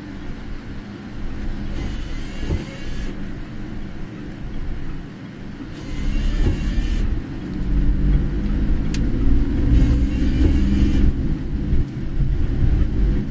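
Car driving on a rain-soaked road in heavy typhoon rain: a steady low engine and road rumble that grows louder about halfway through as the car speeds up. A hiss comes and goes about every four seconds, and there is one short click.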